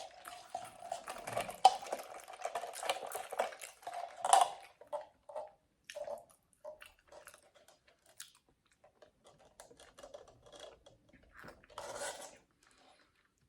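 Close-up eating and drinking sounds: bubble tea sipped through a straw, with a continuous sipping sound for about the first four and a half seconds, then softer scattered clicks of chewing the tapioca balls and a short slurp near the end.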